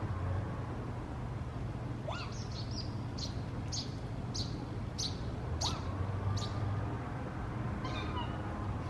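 A bird chirping: a run of short, high chirps repeated about every half second, with a couple of brief rising calls among them, over a steady low hum.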